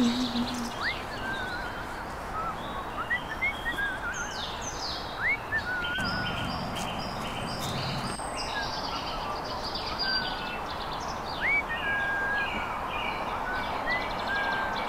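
Several wild birds chirping, whistling and trilling in short calls over a steady outdoor background hiss. A low held tone dies away about half a second in.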